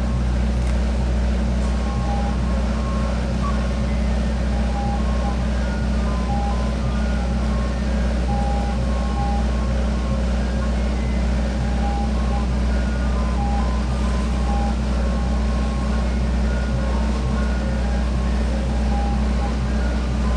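Ice cream truck's engine running steadily, with its chime playing a tune of short electronic notes over the engine's drone.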